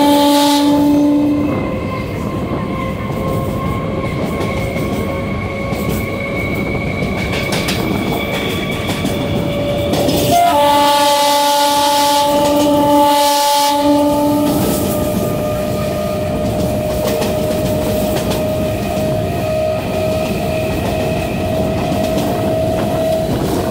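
Electric multiple unit (EMU) suburban train running, heard from the front car: the horn sounds twice, one blast ending about a second and a half in and a longer blast of about four seconds near the middle. Under the horn, the running rumble goes on, with a steady whine that slowly rises in pitch.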